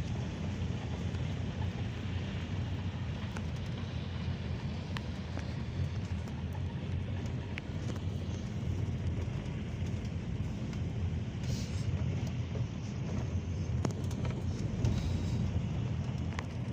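Inside the cabin of a Peugeot Boxer minibus on the move: a steady engine and road rumble, with scattered light clicks and rattles.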